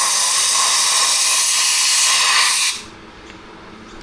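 Compressed-air blow gun blasting into a Husqvarna 365 chainsaw's open crankcase to clear out debris: one long, loud hiss of air that cuts off suddenly under three seconds in.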